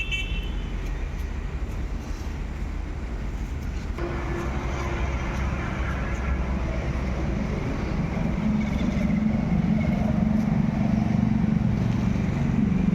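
Massey Ferguson 254 Smart 4WD tractor's diesel engine running, growing louder in the second half with a steady hum.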